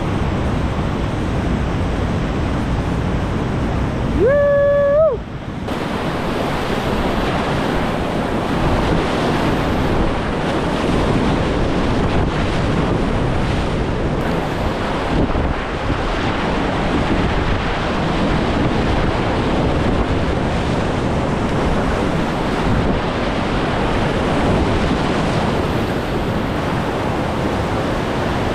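Whitewater creek rapids rushing steadily, with wind buffeting the microphone. About four seconds in, a brief pitched call rises and holds for about a second.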